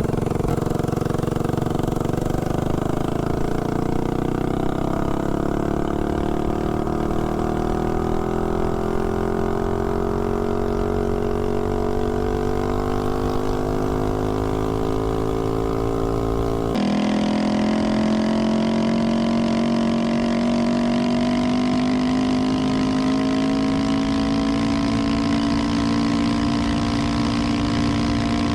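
Tillotson 212 single-cylinder four-stroke engine on a Doodlebug mini bike, running on a 20% nitro fuel blend with a 180 main jet. It is held at full throttle on a top-speed run, its pitch climbing slowly as the bike gains speed. About two-thirds of the way through the sound changes abruptly, and the climb starts again from a lower pitch.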